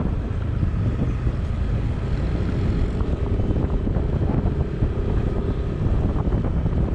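A vehicle on the move: steady engine and road rumble with wind buffeting the microphone.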